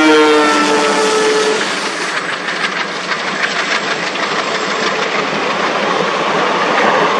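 Air horn of twin WDM-3A ALCo diesel locomotives sounding as they pass, cutting off about a second and a half in. After that the train's passenger coaches roll by with a steady rush and wheels clicking over the rail joints.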